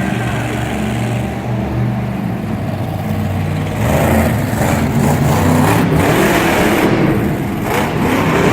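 Monster truck engine running and revving during a run, growing louder and rougher about four seconds in, with a few sharp knocks near the end.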